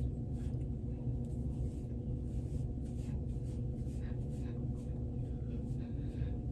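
A steady low hum with a few fixed tones, with faint scattered rustling and handling noises over it.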